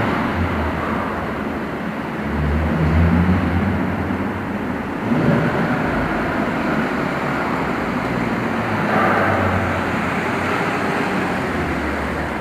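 Audi A6 3.0 TFSI's supercharged V6 exhaust running at low revs with a deep steady drone, swelling gently a few times.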